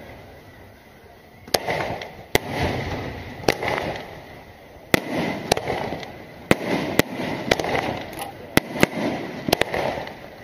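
Aerial firework shells bursting overhead: about a dozen sharp bangs at uneven intervals, closer together in the second half, each followed by a rolling echo.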